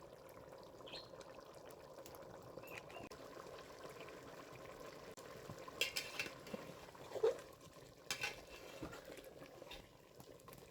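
Pot of biryani rice simmering as its last water cooks off: a faint, steady bubbling hiss, with a few short knocks about six and eight seconds in.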